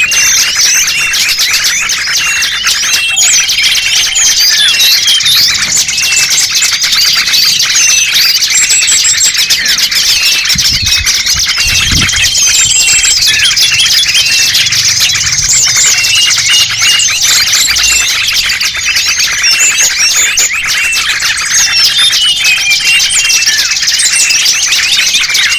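Dense chorus of many small songbirds chirping, twittering and trilling over one another without pause: a bird-lure call recording meant to draw small birds in.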